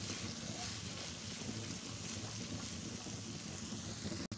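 Chicken keema (spiced minced chicken) sizzling in hot oil in a frying pan as it is stirred, a steady crackling hiss. It breaks off abruptly right at the end.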